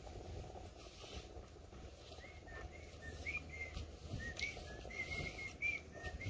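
A bird chirping: short, high notes repeated a few times a second, starting about two seconds in, over a faint low rumble.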